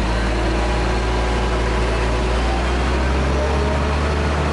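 Heavy diesel construction machinery engine running steadily with a low drone; its low note shifts slightly about three seconds in.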